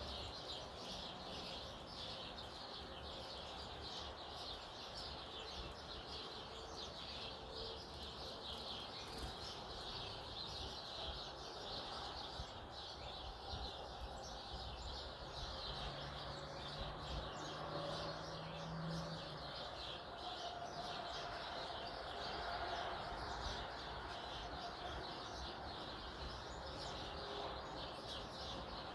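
Many small birds chirping busily and continuously, a dense chatter of quick high chirps.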